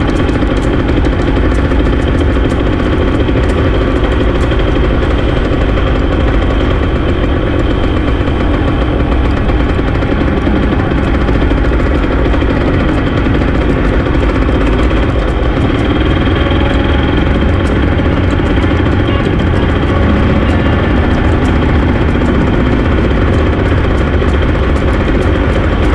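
Small single-cylinder pit bike engine running at a steady low speed, close by.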